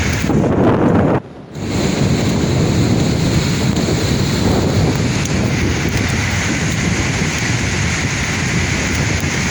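Sea waves washing on the shore in a continuous roar, with wind buffeting the microphone. The sound surges just after the start, cuts out abruptly for a moment about a second in, then runs on steadily.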